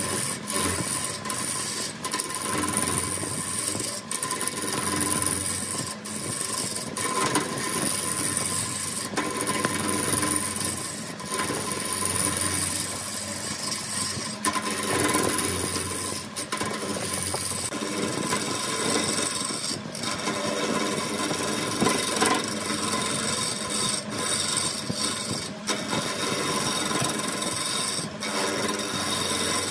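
Woodworking tool scraping and rasping against wood without a break, over a faint steady machine hum, with frequent short catches and clicks.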